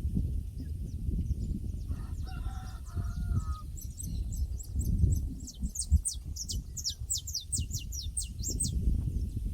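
Pasture ambience: a rooster crows once, about two seconds in, over a steady low rumble. From about halfway, a small bird sings a rapid series of high, falling chirps.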